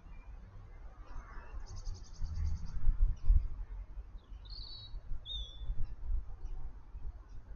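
Garden birds calling: a rapid high trill lasting about a second, then a few short chirps that slide in pitch, over a steady low rumble on the microphone.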